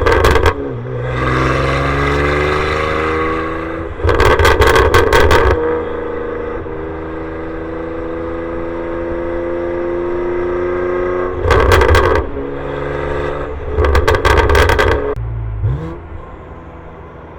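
BMW G87 M2's twin-turbo inline-six with its exhaust valves open, pulling hard through the gears. The note climbs steadily in each gear and is broken by four loud, distorted blasts, after which the pitch drops. Near the end it settles to a quieter, lower drone.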